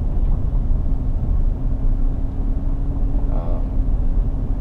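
Road and engine noise heard from inside a moving vehicle's cabin: a steady low rumble, with a thin steady hum coming in about a second and a half in.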